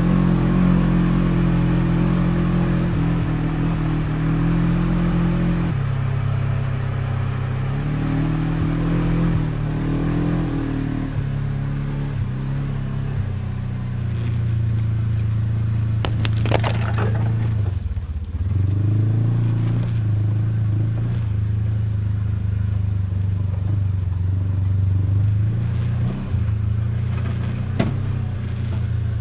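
Off-road vehicle engine running at low speed, its pitch dropping and rising several times as it works along. About sixteen seconds in, a short burst of scraping and clattering.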